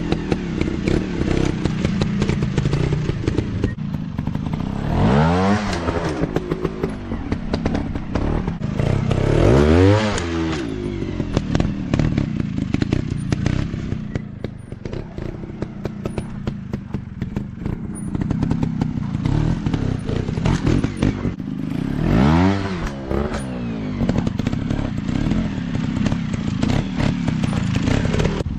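Dirt bike engines running, with the revs rising sharply and dropping back three times, about five, ten and twenty-two seconds in, over a steady run of rough engine clatter.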